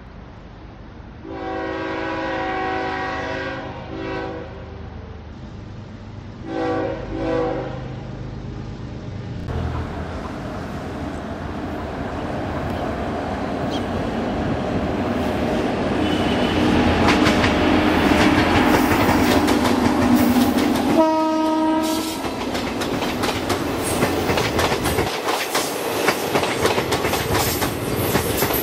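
WAP-7 electric locomotive's horn: a long blast about a second in, a short one just after, and two short blasts a few seconds later, as the train approaches. The train's rumble then grows steadily louder, with a brief horn toot as the locomotive draws level, followed by the rapid clickety-clack of the passenger coaches' wheels running over rail joints.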